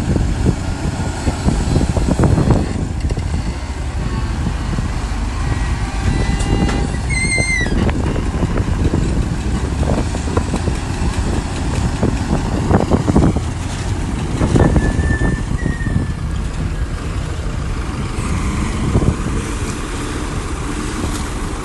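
Diesel engine of heavy earthmoving machinery running steadily under load, with scattered knocks and clanks and a short high-pitched squeal about seven seconds in.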